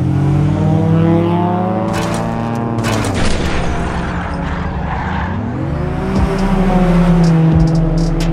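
Race-car engine sound effect laid over a toy diecast-car race. The engine's pitch drops about three seconds in, then climbs again, with a few sharp clicks early on.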